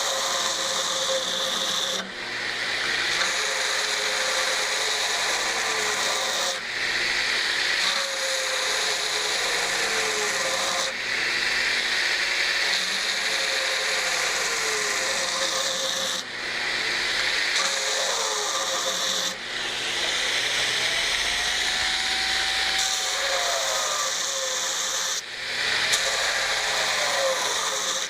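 Burr King variable-speed belt grinder rough grinding a steel knife blade on a 60 grit belt: a steady abrasive hiss over the motor's hum, dipping briefly every few seconds as the blade is lifted off the belt between passes.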